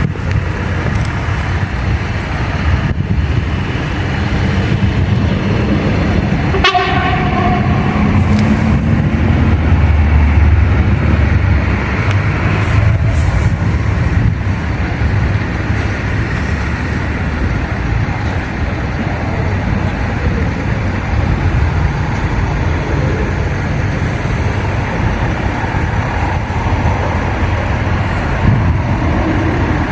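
Train running by with a loud, steady rumble, and one short horn blast about seven seconds in.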